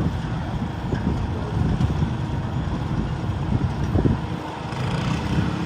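Garden tractor engine running hard under load, pulling a weight-transfer sled.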